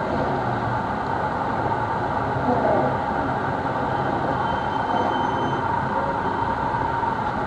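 Diesel-hauled passenger train running past close by: a steady rumble of engine and wheels on rails, with a faint thin squeal about halfway through.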